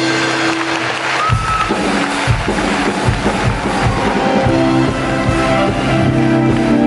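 Live band music with guitar: held chords give way about a second in to a steady drum and bass beat.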